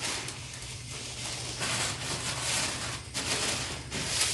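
A cloth wiping in several swishing strokes, with short breaks between them, over a primed car hood and its masking paper before painting.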